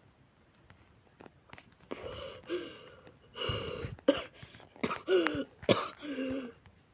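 A person coughing and clearing his throat several times, starting about two seconds in, with rough attempts at voice between the coughs: the sounds of someone sick who has lost his voice.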